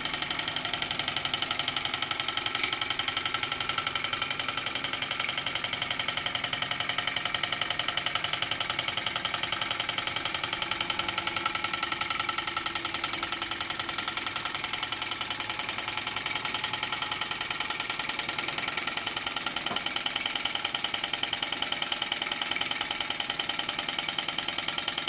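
Model engine, the Centurion, running steadily under load while driving a Baker fan, with a rapid, even mechanical beat.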